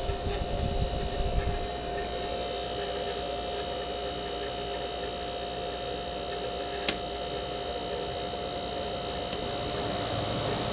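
Window air conditioner running on test, a steady hum with a constant whine from its fan motor and compressor, running quiet. Some low bumping in the first second or two and a single sharp click about seven seconds in.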